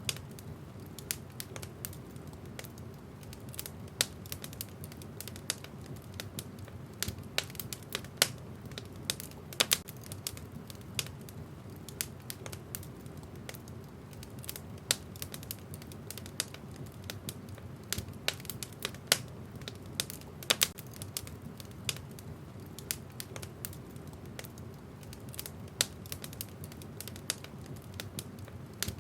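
Wood fire in a fireplace burning with a steady low rumble and irregular, sharp crackles and pops from the burning logs, several a second.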